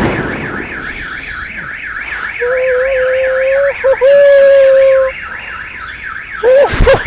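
A car alarm wails with a rising-and-falling tone about three times a second, likely set off by the firework explosion that has just gone off. The explosion's echo fades in the first second, a long steady higher note sounds over the alarm through the middle, and voices shout near the end.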